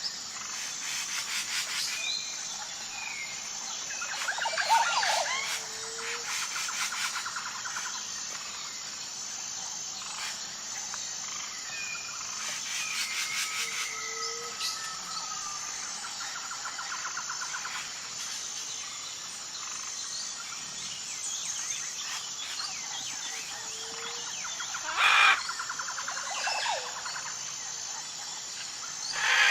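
Wild birds calling and chirping over a steady high chorus of insects. Trills and a short low call recur every several seconds, with a louder burst of calls near the end.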